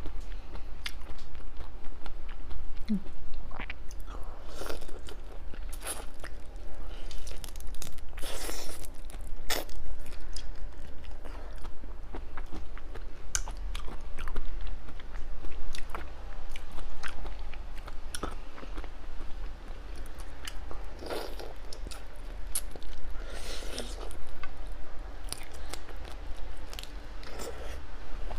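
A person chewing and biting seafood close to the microphone, with scattered crunches and clicks. A steady low hum runs underneath.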